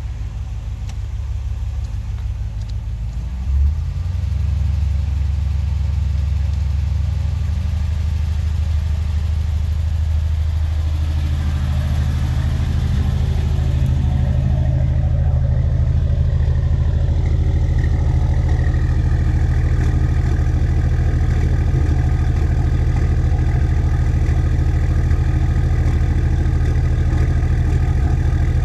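Car engine running at idle with an audible misfire. About three and a half seconds in it gets a brief jolt and then runs steadily louder.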